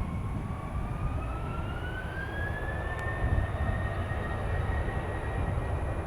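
Jet aircraft engines spooling up: a whine rises in pitch over the first three seconds or so, then holds steady over a low rumble.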